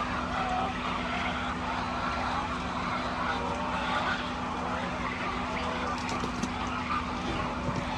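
Many chickens clucking and calling in short, overlapping notes over a steady mechanical hum.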